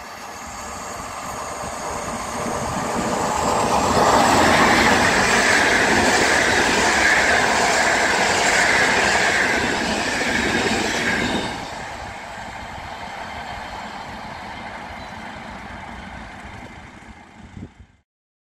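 Passenger train of coaches passing at speed: a rising rush as it approaches, then loud wheel and rail noise for several seconds. The noise drops suddenly to a quieter rumble about two thirds through and cuts off abruptly near the end.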